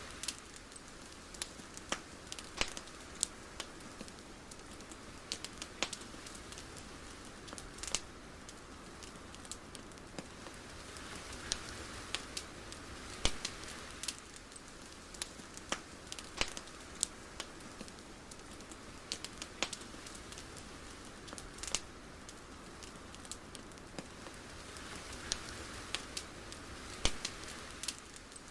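Ambient crackle: a steady soft hiss scattered with irregular sharp pops and clicks, swelling gently now and then.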